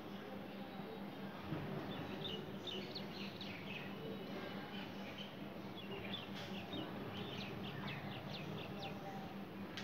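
Small birds chirping: quick runs of short, high notes, one run a couple of seconds in and another from about six seconds in, over a steady low hum and background noise.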